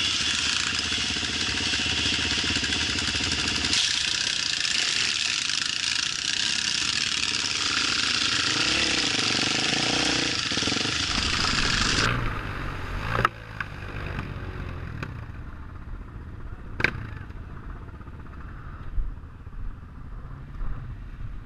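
Off-road motorcycle engine running hard with a loud, noisy rush. About twelve seconds in it drops off abruptly to a quieter low engine sound with a few sharp clicks.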